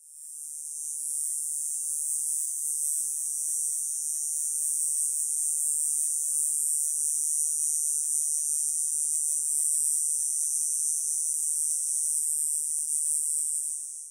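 Cicada song: one continuous, high-pitched shrill buzz, fading in over the first second and fading out near the end.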